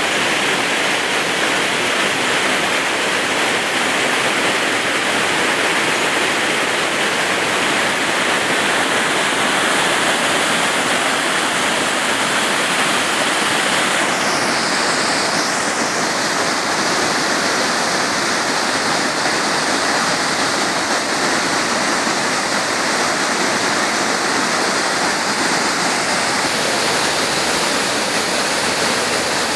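Waterfall water rushing in a steady, loud hiss, its tone shifting slightly about halfway through.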